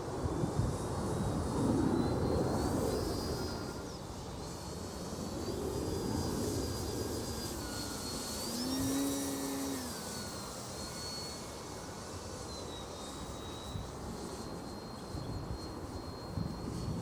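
Electric brushless motor and propeller of a Durafly Ugly Stick V2 RC sport plane whining in flight, its pitch stepping up and down with the throttle and swelling to a higher pitch about nine seconds in.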